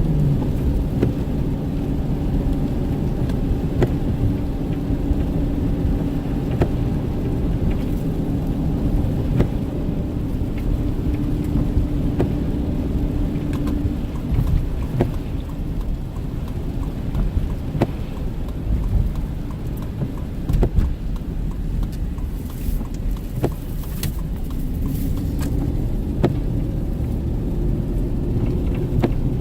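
Car driving on a wet, snowy road: a steady low rumble of road and engine noise with a hum that fades about halfway through and returns near the end, and scattered sharp ticks.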